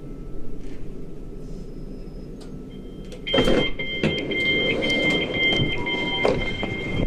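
Southern Class 377 Electrostar's sliding passenger doors working. Over a low train rumble there is a sudden thump a little over three seconds in, then a steady two-pitched door warning tone for about four seconds.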